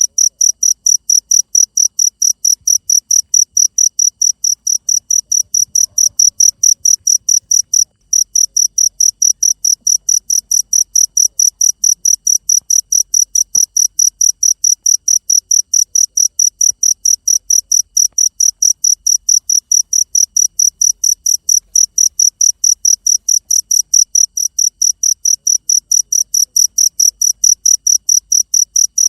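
Cricket chirping in a steady, evenly spaced rhythm, several high-pitched chirps a second, with a brief break about eight seconds in.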